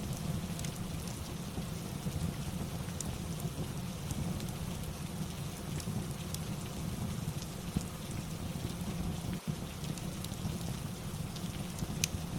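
Steady rain falling, an even hiss with a deep low rumble, dotted with scattered small sharp ticks; one tick near the end stands out.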